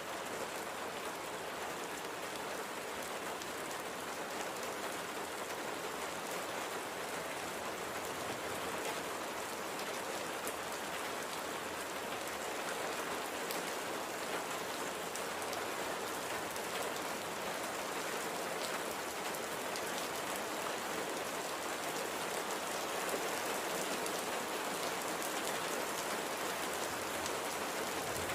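Steady light rain falling: an even hiss of rain with fine scattered drop ticks, slowly growing a little louder.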